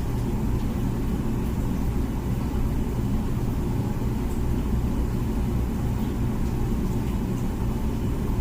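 Comfee dishwasher running mid-cycle: a steady low rumble.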